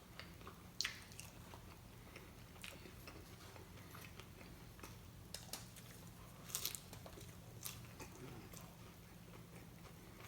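Faint chewing and biting as a person eats Taco Bell tacos, with scattered wet mouth clicks, a few louder ones past the middle.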